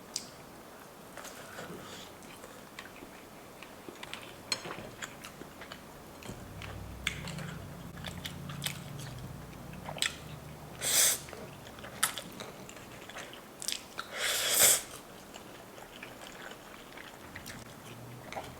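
A person eating close to the microphone: chewing and biting with small wet clicks, and twice in the second half a louder, short noisy burst.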